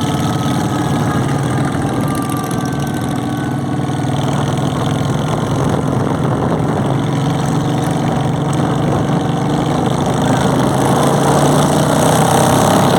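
Motorcycle engines running steadily, growing a little louder near the end.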